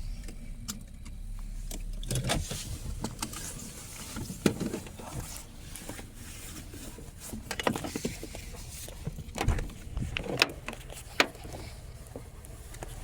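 Inside a car cabin: a low engine and road rumble with scattered clicks, knocks and rattles.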